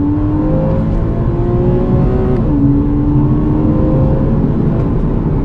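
Porsche 981 Cayman S's 3.4-litre flat-six, heard from inside the cabin, accelerating hard through its standard exhaust. The revs climb, drop sharply at an early upshift about halfway through, then climb again and ease off near the end, over steady road rumble.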